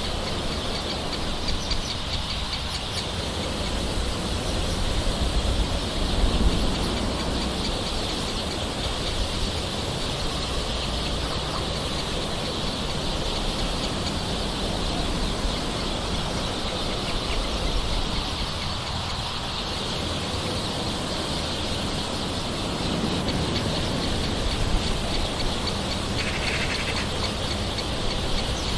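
Gentle rain falling steadily, with birds calling in the background.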